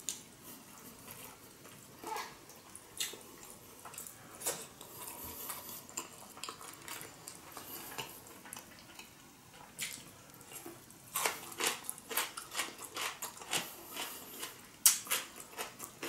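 Chewing and biting into a giant sushi roll of rice and nori: a run of wet mouth clicks and smacks, coming thicker in the last five seconds.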